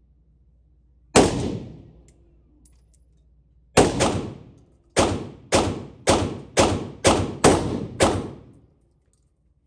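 Gunshots from a semi-automatic firearm: a single shot, another about two and a half seconds later, then a quick string of seven shots roughly half a second apart.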